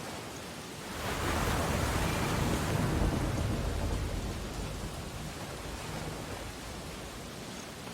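Ocean waves on a beach: one wave breaks and surges in about a second in, then slowly fades as it washes back, over a steady hiss of surf.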